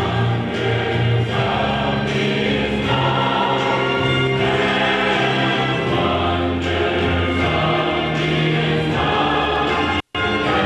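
A choir singing with sustained notes. The sound cuts out completely for a split second near the end.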